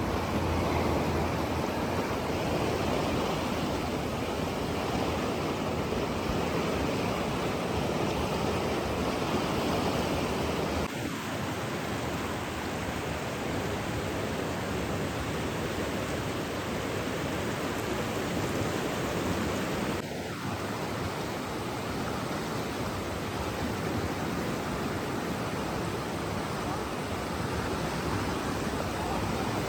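Steady rushing of running water, a dense even hiss with no separate splashes, slightly quieter after brief dips about eleven and twenty seconds in.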